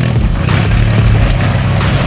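Off-road vehicle engine running, mixed with background music that has steady low notes and occasional sharp hits.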